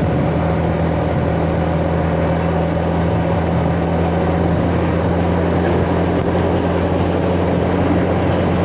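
Yamaha Jupiter Z's single-cylinder four-stroke engine running at a steady, even speed while riding, heard from the rider's chest over road noise.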